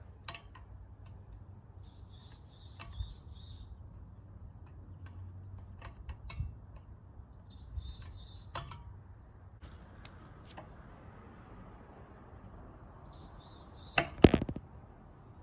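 Scattered light clicks and knocks, with two louder knocks about fourteen seconds in. A short high falling chirp sounds three times, a few seconds apart.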